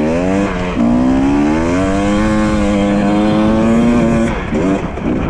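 Dirt bike engine running under way. Its pitch dips briefly about half a second in, climbs and holds steady for a few seconds, then falls off near the end with a couple of short blips of the throttle.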